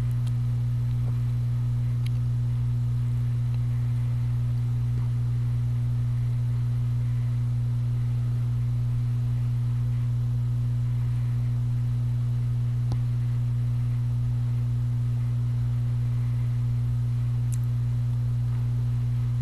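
Steady low electrical hum: one deep unchanging tone with a fainter overtone above it, over faint hiss. Only a few faint ticks stand out.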